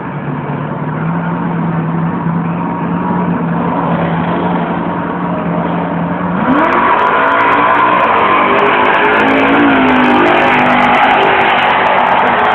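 Two drag-racing cars at the start line, an engine holding a steady note, then launching about six seconds in: engines revving hard with rising pitch, breaking and climbing again as they shift up through the gears.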